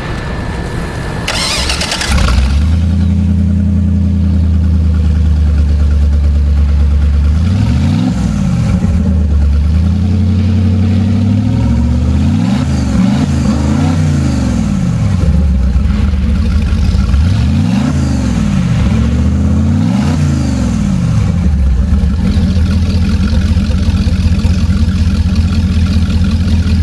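Marine Power 5.7L MR2 EFI V8 engine on a test stand starting up: a brief crank, then it catches about two seconds in and runs. It is revved several times, each rev rising and falling, before settling back to a steady run near the end.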